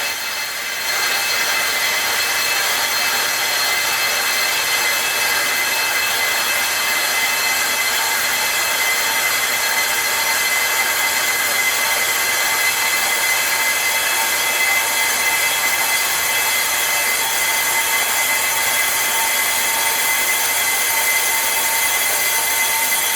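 Brake disc of a 2018 Range Rover Velar being resurfaced: a steady, high-pitched metallic squeal and hiss of the cutting tool on the spinning disc, machined to cure a brake noise.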